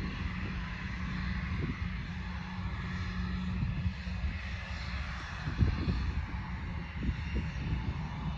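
An aircraft engine running steadily, heard under gusting wind that buffets the microphone with a low, uneven rumble and sudden thumps.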